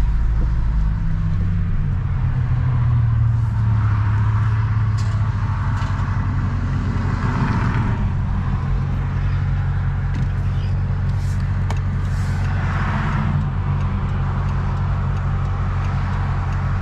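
Dodge Charger R/T's 5.7-litre Hemi V8 running steadily under way, a low, even exhaust note through a mid-muffler delete with glass-pack mufflers. It swells slightly a few seconds in.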